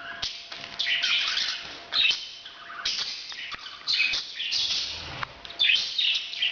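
Parrots chirping and chattering in quick, overlapping bursts: breeding-season calls.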